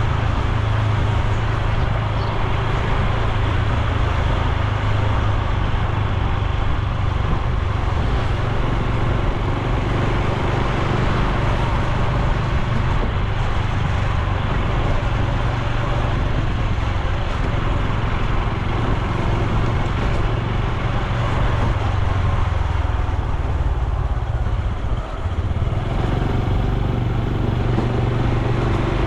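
Honda Super Cub C125's single-cylinder four-stroke engine running steadily while riding, with road and wind rush over it. The sound dips briefly near the end as the throttle eases, then picks up again.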